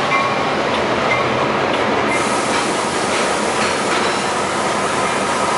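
Cars of a Long Island Rail Road work train rolling past close by: a steady rumble of wheels on rail with scattered clicks as the wheels cross rail joints.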